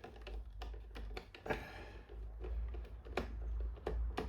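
Irregular light clicks and taps of a small socket tool working the screws out of a car fuel pump assembly, with the metal and plastic parts being handled.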